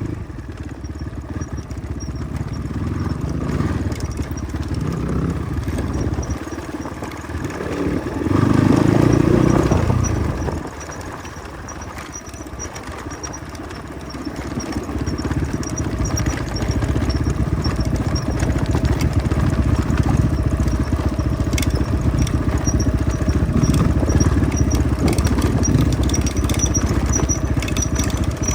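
Motorcycle engine running as the bike rides along a rough road. There is a louder surge about eight seconds in, then a dip, and the engine grows louder again and holds from about halfway through.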